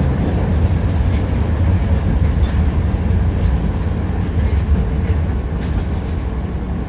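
Tram running along the track, heard from inside the car: a steady low rumble of wheels on rails, with a few faint clicks from the wheels.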